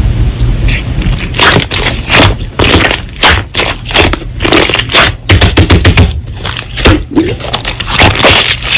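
Slime being pressed and squeezed by hand, giving a dense run of irregular crackling and popping air-bubble sounds.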